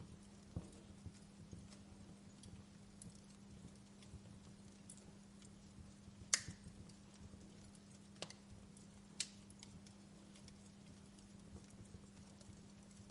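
Wood fire crackling in a fireplace: sparse pops and snaps, the sharpest about six seconds in, over a faint steady low hum.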